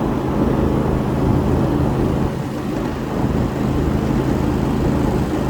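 Steady low rumble of a 7.5-inch gauge ride-on miniature train rolling along its track, heard from aboard.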